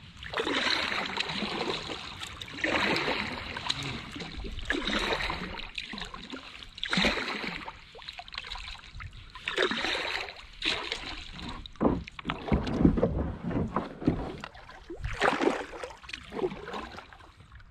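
Kayak paddle strokes: the blades dip and swish through the water in a regular rhythm, one splash about every two seconds, with water running off the blades between strokes.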